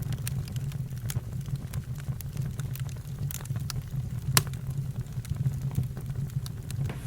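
Campfire crackling, with sharp pops scattered irregularly over a steady low hum; the loudest pop comes a little past the middle.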